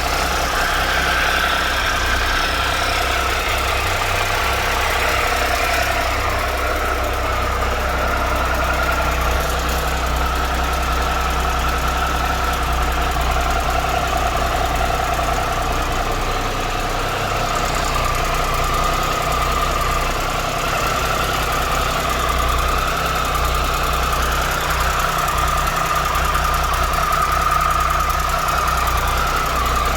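2013 Triumph Tiger Explorer's three-cylinder engine idling steadily, with a light mechanical tick still present after a new cam chain and hydraulic cam chain tensioner were fitted; the mechanic judged it normal engine noise.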